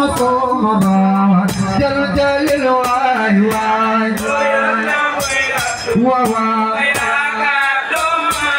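Assiko band music: singing over percussion with sharp, regular strikes.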